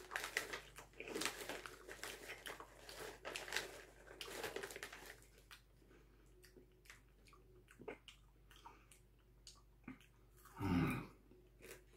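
Chewing and crunching mouthfuls of caramel-coated popcorn for about five seconds, followed by quieter, scattered clicks and rustles as more popcorn is taken from the paper bag. A short louder vocal sound comes about a second before the end.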